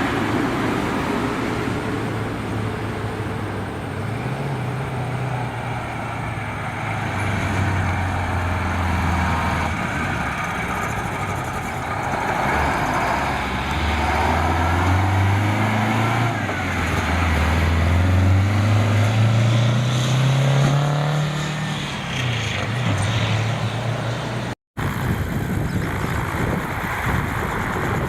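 Heavy truck's diesel engine pulling away, its pitch climbing and dropping back several times as it shifts up through the gears. A short break about three-quarters through, then steady road traffic noise.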